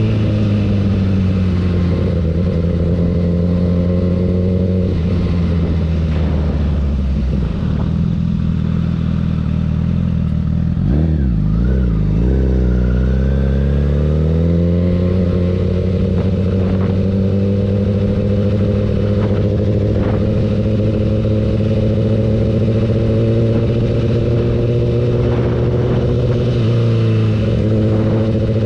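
Honda CBR1000RR SP1's inline-four engine running under way. Its pitch falls for several seconds, wavers quickly up and down about eleven seconds in, then climbs and settles into a steady run.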